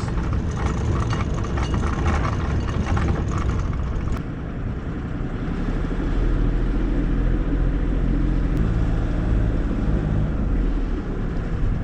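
Sailboat's inboard diesel engine running in reverse to set the bow anchor, a steady low drone. The tone changes about four seconds in, and it runs slightly louder from about six seconds as the boat backs down on the anchor.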